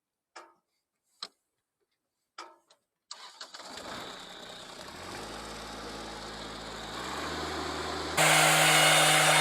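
A few faint clicks, then a vehicle engine starts about three seconds in and runs, its pitch stepping up around seven seconds. About eight seconds in it gets suddenly much louder as it is revved or put under load.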